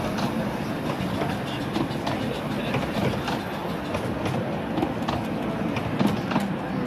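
Miniature railway train's coaches and wagons rolling past close by on the track, with steady rumbling and irregular clicking of wheels over the rail joints.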